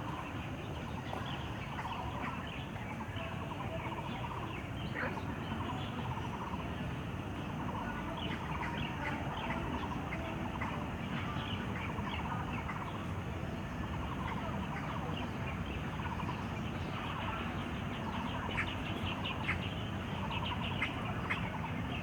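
Large birds calling over and over in short, warbling bursts over a steady background hum.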